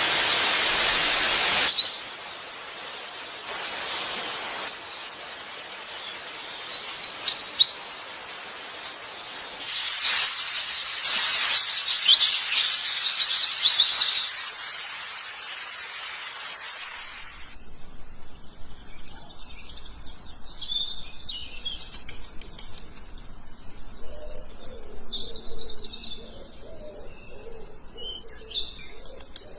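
Birds chirping and calling in short high notes. For the first part they are heard over a steady hiss of background noise, which stops abruptly about two-thirds of the way through. After that the chirps go on over a quieter background, with some lower calls near the end.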